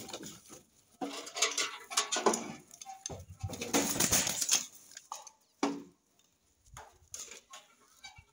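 Caged birds in a wire-mesh coop giving several short, low calls, mixed with bursts of rustling and shuffling.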